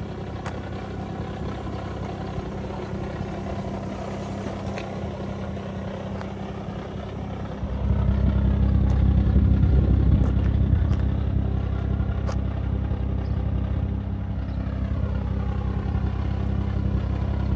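Toyota Crown estate's 1JZ-GTE VVTi turbocharged straight-six idling steadily, growing louder about eight seconds in and staying louder.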